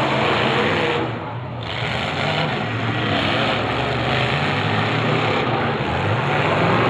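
Demolition derby cars' engines running and revving together, with pitch rising and falling as the cars move; the sound drops briefly about a second in.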